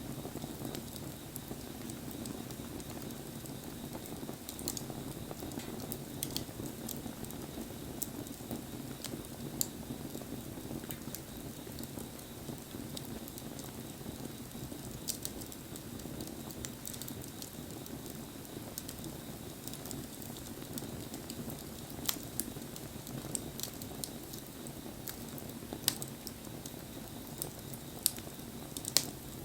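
Wood bonfire burning with a steady low rush, crackling and popping now and then, with a few sharper pops in the second half.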